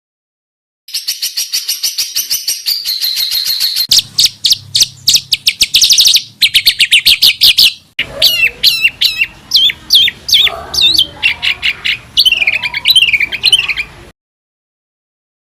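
Songbird song in spliced segments: a fast, high trill, then rapid chattering notes, a dense trill, and a run of varied, sharply gliding whistled notes. It starts after about a second of silence and stops about a second and a half before the end.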